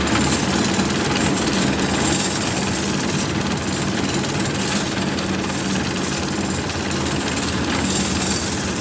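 A machine running loudly and steadily, with a fast even rattle over a low hum.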